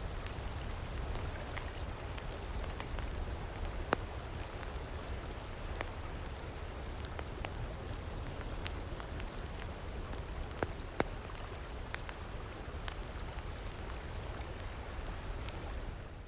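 Campfire crackling, with irregular sharp pops and snaps over a steady rush of river water and a low rumble.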